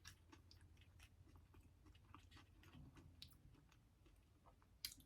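Faint close-up chewing of a fried potato fry: soft irregular mouth clicks and crunches, with one sharper click near the end.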